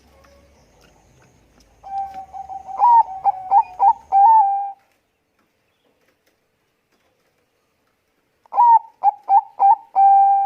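Zebra dove of the Bangkok perkutut strain cooing: two song phrases a few seconds apart, each a quick run of staccato coos ending in a held note.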